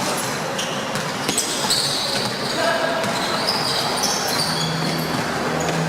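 Basketball game on an indoor court: the ball bouncing, sneakers squeaking in short high chirps, and players' and spectators' voices.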